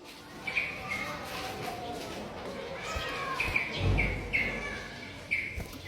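A small songbird chirping: short, repeated notes, one about half a second in and a quicker run of them in the second half, with people talking in the background.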